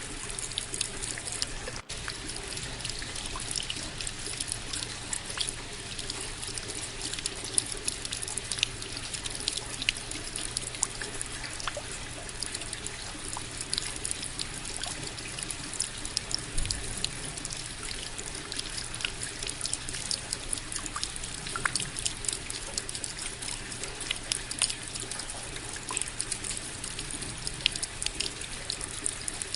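Steady rain, with many sharp, irregular drops striking close by over an even wash of rainfall.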